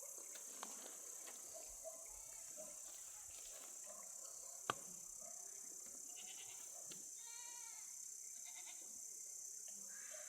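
A single faint bleat from livestock, about seven seconds in, over a steady high insect-like hiss. A single sharp click comes a little before the middle.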